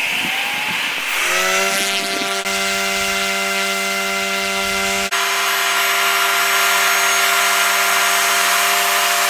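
A steady machine-like drone: several held pitches over a hiss, settling about a second in. The lowest part cuts out abruptly about five seconds in while the rest carries on.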